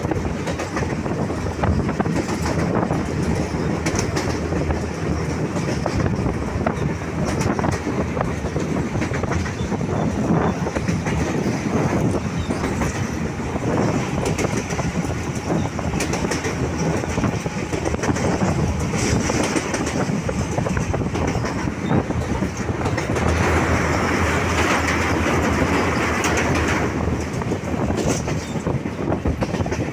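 Mumbai suburban local train (electric multiple unit) running at speed, heard from aboard the coach: a steady rumble and rattle, with the clicks of wheels passing over rail joints. A louder rushing stretch of a few seconds comes about three-quarters of the way through.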